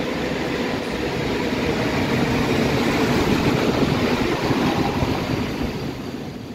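PKP Intercity electric locomotive and passenger coaches pulling into the platform: a steady rumble and rail noise that swells as the locomotive passes close by about three seconds in, then eases off.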